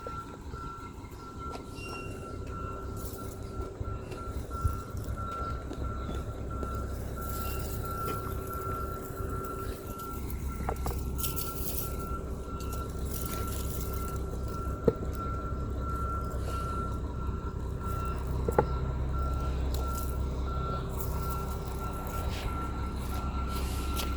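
A vehicle's reversing alarm beeping steadily at an even pace, over a low engine rumble that grows louder about ten seconds in, with a few sharp clicks.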